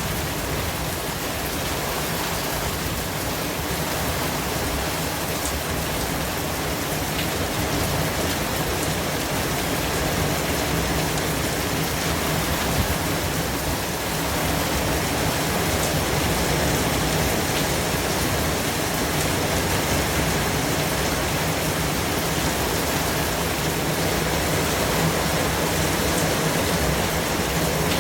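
Steady, unchanging hiss of white noise spread evenly from low to high pitches.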